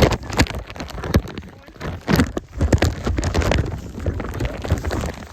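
Rain hitting the microphone: a dense run of irregular taps and crackles over a low rumble.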